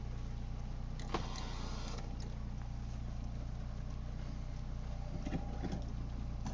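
Car cabin while driving in the rain: a steady engine and road hum, with a few short clicks and taps about a second in and again near the end.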